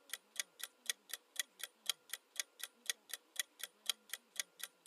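Countdown timer sound effect: a clock-like tick repeating evenly, about four ticks a second.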